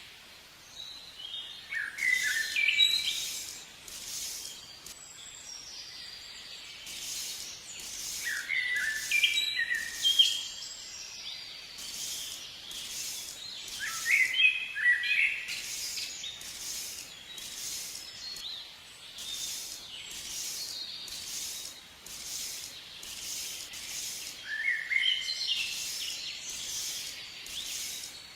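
Birds singing outdoors: short, falling, chirpy song phrases every few seconds over a steady, regular high-pitched chirp that repeats a little faster than once a second.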